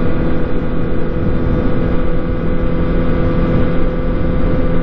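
Yamaha R1's inline-four engine running at a steady cruising speed, its note holding even, with wind rushing over the microphone.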